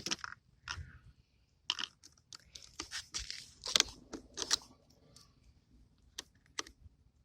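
Irregular short clicks and crunchy, crinkly rustles, like objects being handled and fiddled with.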